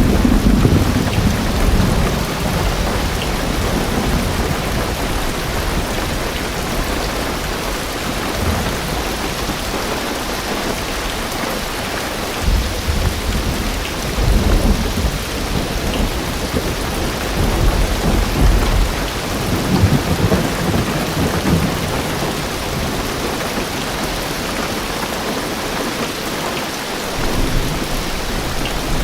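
Heavy rain drumming steadily on a car's roof and windows, heard from inside the car, with deep rumbles of thunder swelling at the start, about halfway through and again a few seconds later.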